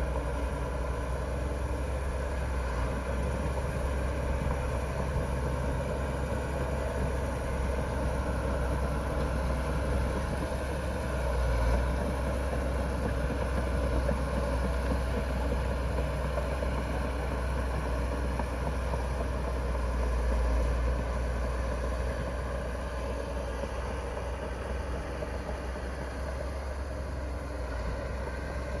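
Heavy diesel engine of earthmoving machinery running steadily, with a deep low hum and a brief rise in level twice.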